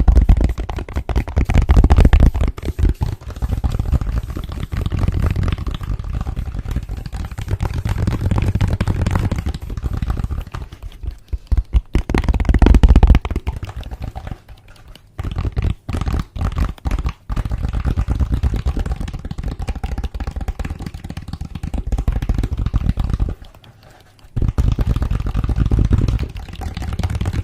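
Close-miked ASMR hand sounds: fast fingertip tapping and scratching with rubbing, giving a dense run of small clicks and scrapes over a heavy low rumble from contact near the microphone. The sound thins out about halfway through and drops out briefly about a second before a final stretch.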